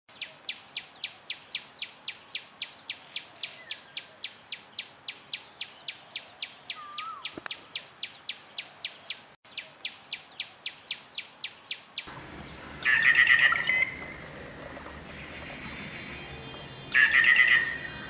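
Common tailorbird calling a fast, even series of short high notes, about four a second. About twelve seconds in it gives way to a rufous treepie, which gives two loud calls a few seconds apart.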